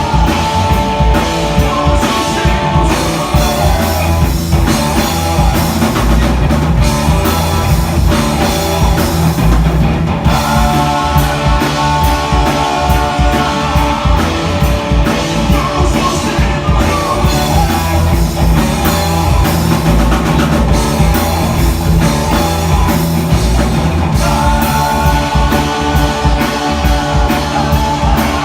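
A rock band playing live, with drum kit and guitars, at a steady loud level with no breaks.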